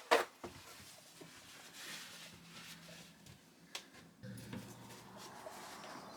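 Faint rubbing strokes of primer being painted onto a narrowboat's steel bow deck, with a sharp knock at the very start and a small click a little before four seconds. A low steady hum sets in about four seconds in.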